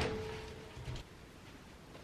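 The fading ring of a hard knock, with a brief steady tone dying away, then a soft thump about a second in, followed by faint room tone.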